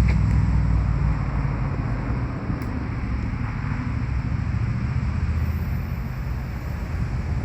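Outdoor ambience: wind buffeting the microphone as a low rumble over a steady rushing hiss.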